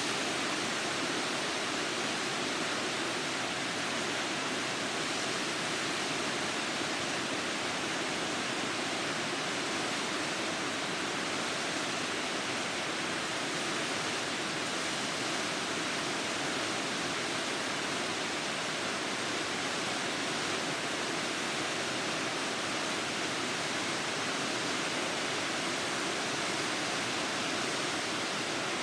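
Funagira Dam's floodgate discharge, about 4,000 tonnes of typhoon floodwater a second pouring through, making a steady, unbroken rushing of water.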